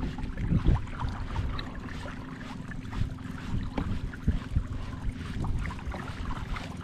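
Wind rumbling on the microphone on a kayak on open water, with scattered small knocks and taps and a faint steady hum underneath.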